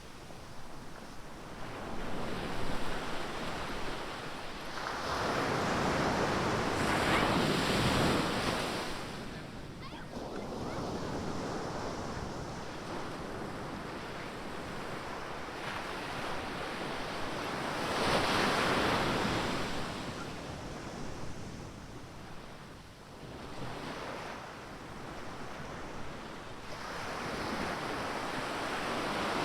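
Ocean surf breaking on a beach: a steady wash of water that swells into two big breaking waves about ten seconds apart, with a third building near the end.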